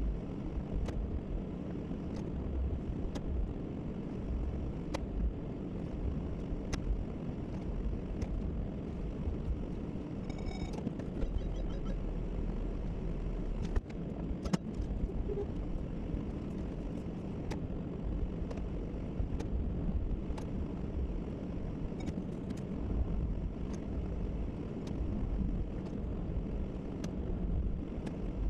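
Pickup truck running: a steady low engine and road rumble, with faint clicks every second or two and a brief electronic chime about ten seconds in.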